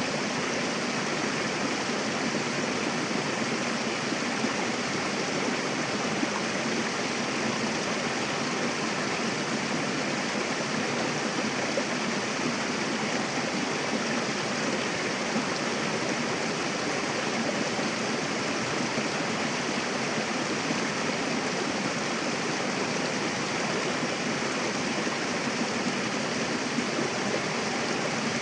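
Mountain river rushing and splashing over rocks in a rocky streambed, a steady, unbroken wash of water noise.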